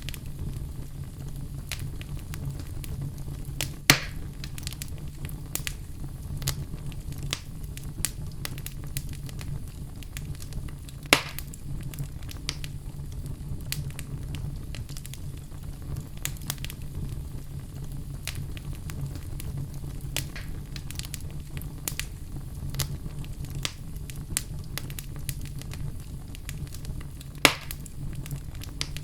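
Log fire crackling: a steady low rumble of flames under frequent small crackles, with three loud sharp pops, at about 4 seconds, 11 seconds and near the end.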